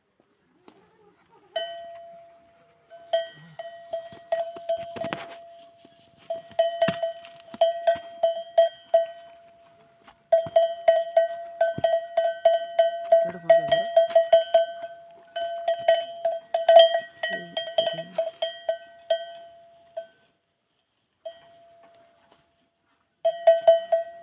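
A metal bell hung on a camel clanking in quick, irregular runs of strikes with short pauses as the camel eats.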